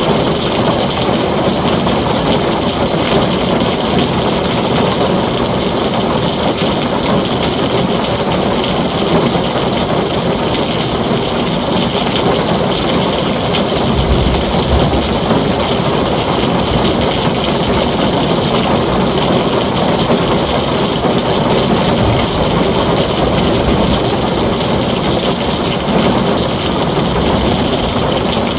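Heavy rain falling steadily on a tin roof, a dense even hiss, with a brief low rumble of thunder about halfway through.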